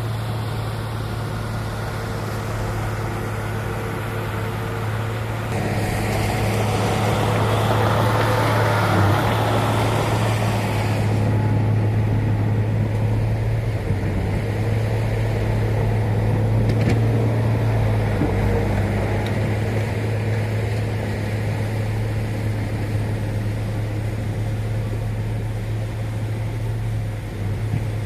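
Heavy diesel earth-moving machinery running steadily, with a low engine hum throughout. About six seconds in, a louder rush of moving stone rises for about five seconds and then stops abruptly.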